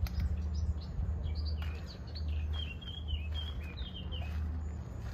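Several songbirds chirping and singing in quick, short high notes, over a steady low rumble.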